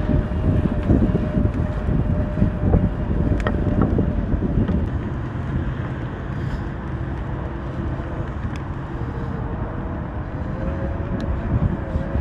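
Wind buffeting the microphone and rolling road noise while riding an e-bike, with a few light clicks and a faint steady whine that drops slightly in pitch past the middle.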